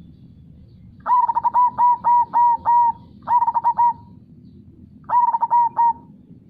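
Zebra dove (perkutut) singing in three bursts of quick, clipped coos. The first burst is a run of about seven notes, followed by two shorter runs of three or four.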